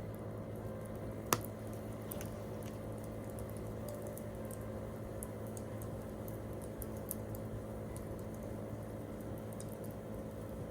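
Campfire wood burning with sparse crackles and ticks, and one sharp pop about a second in, over a steady low hum.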